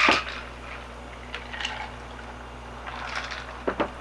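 Soft liquid sounds of a drink being handled and sipped. A louder noisy sound cuts off right at the start, then come faint splashy sounds, with two light clicks near the end.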